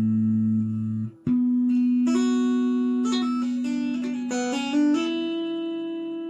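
Instrumental guitar music: held notes break off about a second in, then plucked melody notes ring out over a sustained low note.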